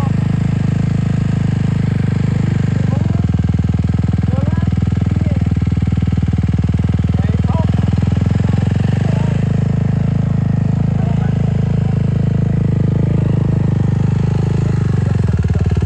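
Dirt bike engine running steadily at low speed, with small changes in engine speed a few seconds in and near the end.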